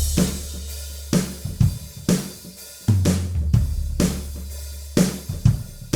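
Sampled acoustic drum kit (Alchemy of Pop EZX's Ignis kit in EZDrummer 3) playing a groove: kick, snare, hi-hat and cymbals, with a long low boom holding after some of the kick hits. The drums run through a filter delay that has just been turned up.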